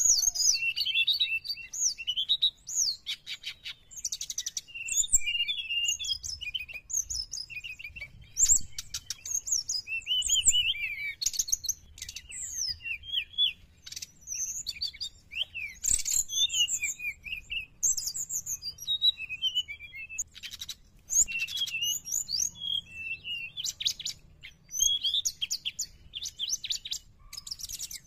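Brown-chested jungle flycatcher (sikatan rimba dada coklat) singing without pause: fast, varied runs of high whistled and chattering notes, with sharp clicks among the phrases.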